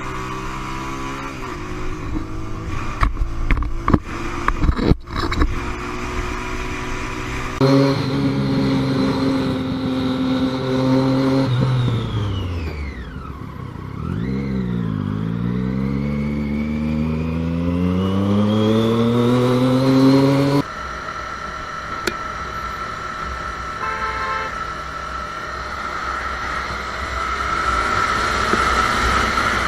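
Motorcycle engines running, with several sharp knocks about three to five seconds in. Then one engine's note drops steeply and climbs steadily again as the bike slows and accelerates. It cuts to a steadier engine drone with a high whine.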